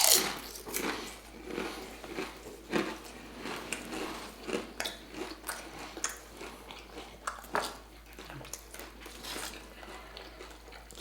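People biting and chewing food, with a sharp crunchy bite right at the start and smaller irregular crunches and mouth sounds after it.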